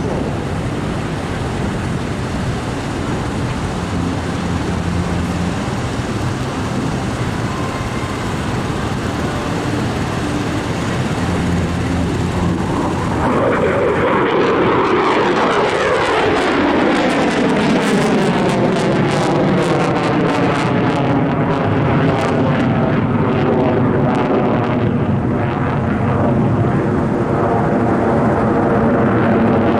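An airplane flying past low overhead: its engine sound builds about halfway through and then falls steadily in pitch as it passes and moves away.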